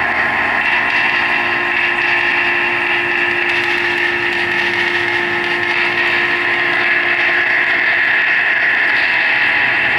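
Live amplified noise/drone performance: a loud, unchanging wall of dense hiss with a steady held tone beneath it.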